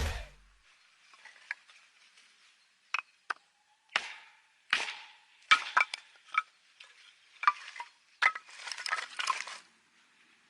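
Irregular sharp knocks and clicks, about a dozen, some with a short ring, with a brief rustle near the end: things being handled by hand.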